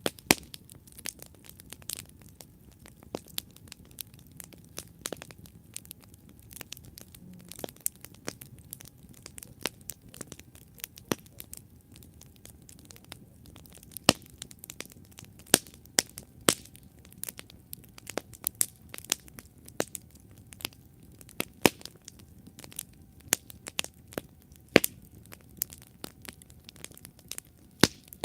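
Campfire burning with constant irregular crackling and sharp pops over a low rumble of flames.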